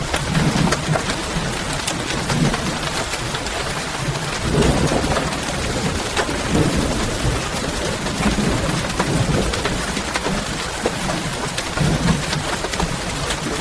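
Steady rainfall: an even hiss with many scattered sharper drop ticks and soft low swells underneath.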